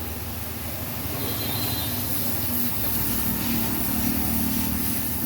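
A vehicle engine running steadily, a low, even engine sound with a haze of noise over it.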